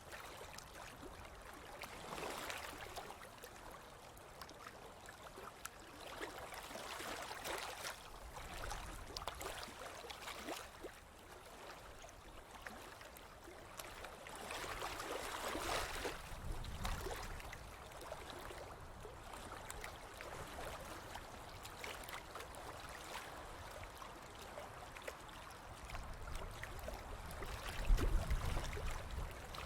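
Ocean waves washing onto a beach, the hiss of the surf swelling and fading every few seconds. A low rumble comes about halfway through, and a louder one near the end.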